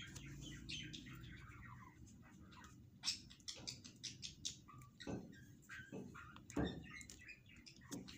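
Small birds chirping in quick, short calls. Some soft taps and rustles come in the second half.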